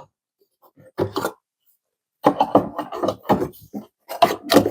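Fridge shelves and drawers being handled and fitted back into an old fridge, a series of short knocks, clatters and scrapes in bunches about a second in and again from about two seconds on.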